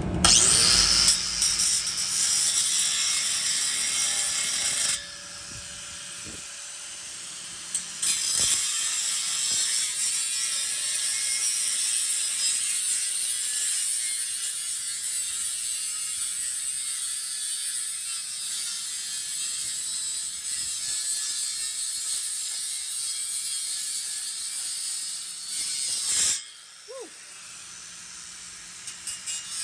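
A power tool cutting through the steel exhaust pipe, a steady harsh grinding noise. It eases off about five seconds in and resumes a few seconds later. Near the end it stops, and a falling whine follows as the tool spins down.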